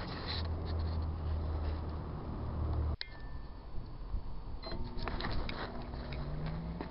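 Sharp Carousel microwave oven running with a steady low hum that cuts off abruptly about three seconds in. A few faint clicks follow.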